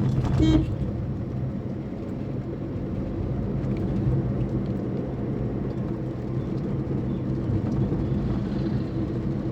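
Vehicle driving along a road: a steady low hum of engine and tyre noise. A short, louder pitched tone sounds about half a second in.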